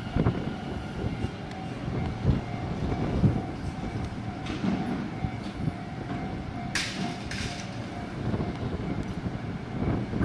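Electric commuter train of the Tobu Tojo Line running by, with a low rumble and irregular thumps of wheels over rail joints. Two short hisses come about seven seconds in.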